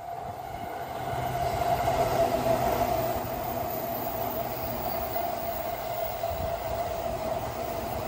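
Orange-striped Chuo Line electric commuter train passing on its track: the running noise builds as it approaches, is loudest about two seconds in, then holds steady as the cars go by, with a steady whine running through it.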